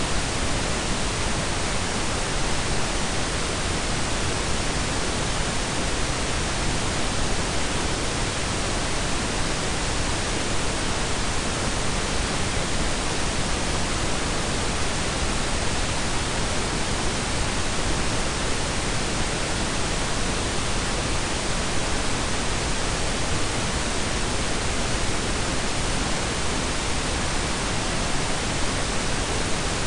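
Steady blended pink and brown noise: an even, unchanging hiss with a deep rumble underneath, with no rhythm or events.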